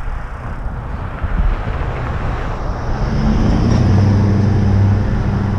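Outdoor road noise with rumbling on the microphone. About three seconds in, the steady hum of a nearby motor vehicle's engine joins it, grows louder and becomes the loudest sound.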